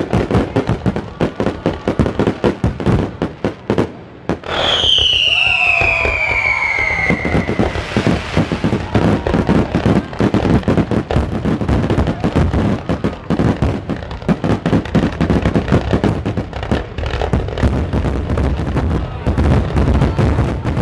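Aerial fireworks shells bursting in a rapid, continuous barrage, with a long falling whistle about four and a half seconds in.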